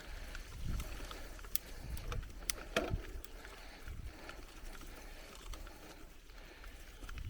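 Bicycle riding over a rough forest trail: tyres rolling on dirt and stones, with sharp clicks and rattles from the bike over bumps between about one and a half and three seconds in, and repeated low thumps.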